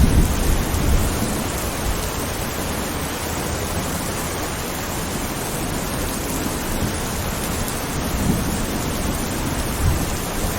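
Steady rain hiss from a thunderstorm. A low rumble of thunder fades just after the start, and thunder begins rumbling again near the end.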